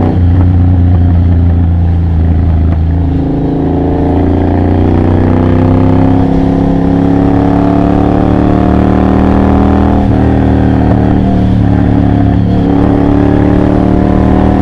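Triumph Bobber's 1200 cc parallel twin running through a Motone Mayhem X-pipe exhaust with practically no silencers, pulling at low revs under load. The pitch climbs slowly through the middle, drops about ten seconds in, then holds steady.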